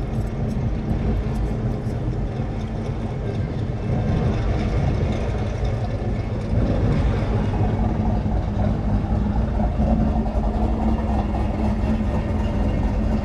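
1972 Plymouth Duster's 408 V8 engine running steadily, getting louder about four seconds in and again a couple of seconds later.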